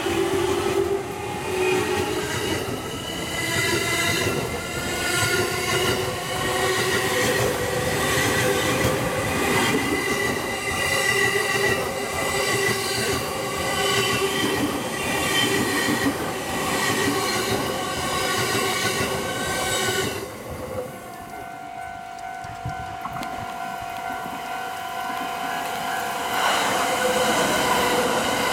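A stainless electric commuter train running slowly past at close range, its wheels and running gear rumbling on the rails with wavering high squealing tones. About two-thirds of the way through the sound drops and a steady tone holds, then the noise of a passing train rises again near the end.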